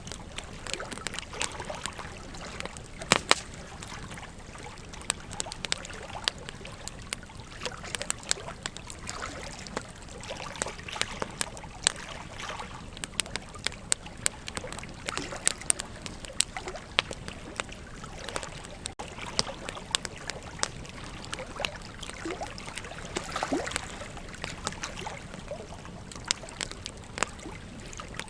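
Wood campfire crackling, with frequent irregular sharp snaps and pops, the loudest a pair about three seconds in, over the steady flow of a river.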